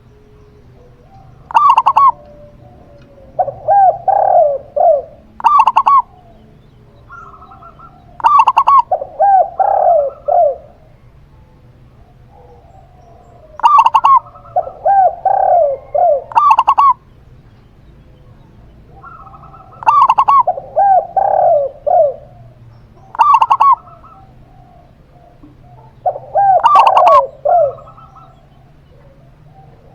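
Zebra dove and spotted dove cooing in turn, each phrase a short run of repeated notes, the groups coming every few seconds: higher sharp notes alternating with lower, rounder coos.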